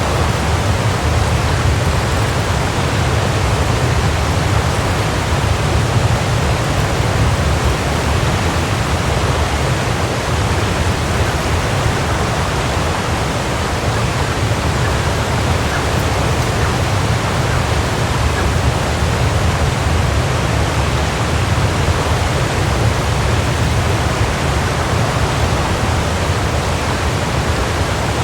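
Waterfall: a steady, full rush of falling water, heaviest in the low end, with no change or break.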